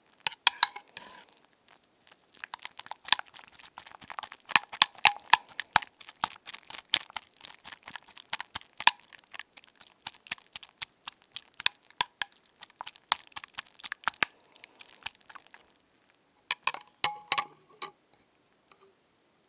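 Close-miked ASMR crackling and scratching: a dense run of irregular clicks and crunches that thins out near the end, with a last short flurry before it stops.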